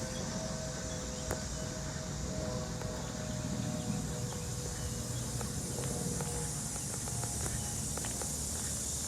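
Steady high-pitched insect buzzing over a low, steady rush of fast-flowing water in a canal, with faint footsteps on the path.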